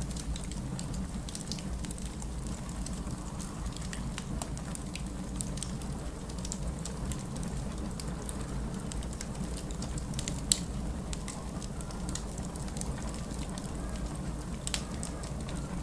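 Wood fire crackling in a fireplace: irregular small pops and snaps, with one sharper pop about ten and a half seconds in and another a couple of seconds later, over a steady low rumble.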